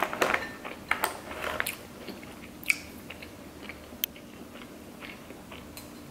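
Close-up mouth sounds of a person chewing sushi rolls: wet smacks and soft crunches, busiest in the first couple of seconds, then a few sharp single clicks.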